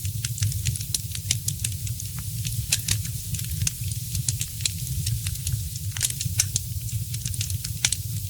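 Wood fire crackling, with irregular sharp pops and snaps over a steady hiss and a low rumble.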